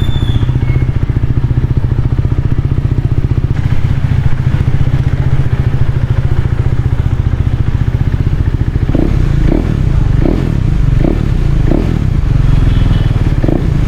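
KTM Duke 390's single-cylinder engine running through an Akrapovic slip-on exhaust on the move, a steady low exhaust note. About nine seconds in, short pulses start to cut through it, roughly one a second.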